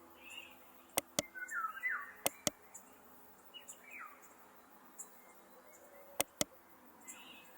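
Computer mouse clicking in three quick double-clicks over a faint steady hum, with a few short falling chirps, from birds, in the background.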